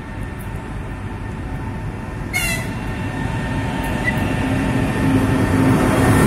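EP20 electric locomotive hauling a passenger train on its approach, its rumble growing steadily louder as it draws near and passes close by. There is one brief sharp sound about two and a half seconds in.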